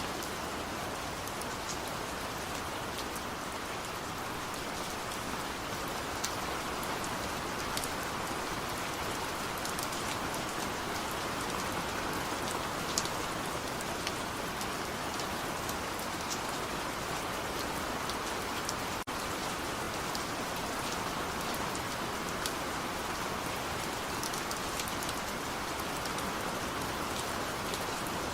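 Heavy rain falling steadily: a dense, even hiss with scattered sharper drop ticks, and one split-second dip about two-thirds of the way through.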